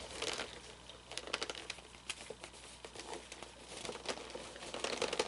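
Fabric rustling and crinkling with many scattered light clicks: clothing being worked into place on a plastic animatronic figure.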